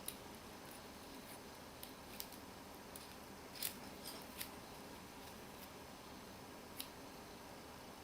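Faint, scattered sharp clicks and snips of small hand-tool and parts handling, about seven over several seconds, over low steady hiss.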